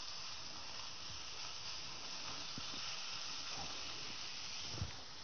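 Scallops, spring onions and garlic sizzling in a little olive oil in a hot frying pan: a steady, even hiss, with a small knock near the end.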